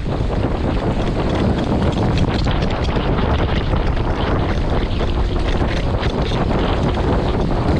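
Wind buffeting the microphone over the rush and splash of water along the hull of an RS800 sailing dinghy under way, steady and loud.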